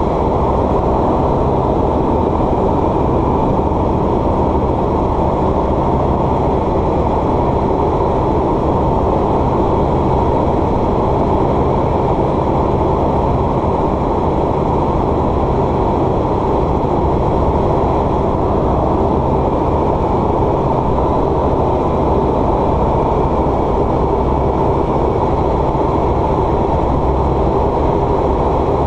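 A light aircraft's piston engine and propeller heard from inside the cockpit: a steady, loud drone that does not change.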